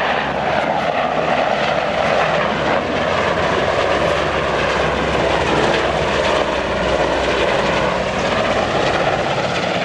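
Airplane engine noise, loud and steady, with a slow dip and rise in pitch as the aircraft flies.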